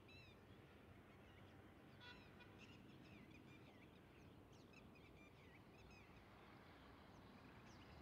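Faint bird calls: a scatter of short, high chirps and whistles, thickest from about two to six seconds in, over a low steady background hum.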